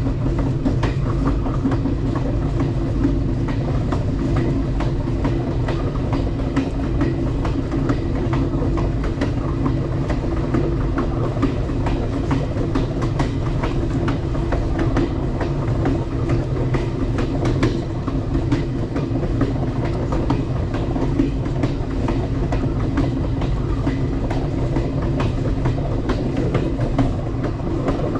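Passenger train running along the track: a steady rumble of steel wheels on rail with scattered clicks and clacks from the rail joints.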